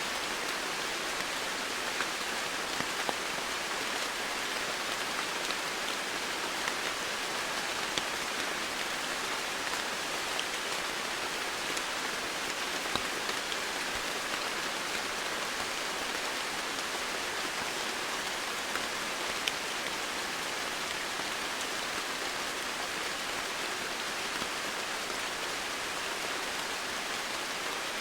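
Steady rainfall, an even hiss of rain with occasional distinct drops striking surfaces.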